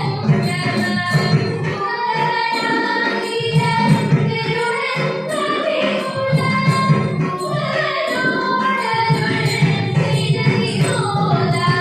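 Ottan thullal music: a voice sings verse in a Kerala classical style over a steady beat of hand-drum strokes and small clashing hand cymbals.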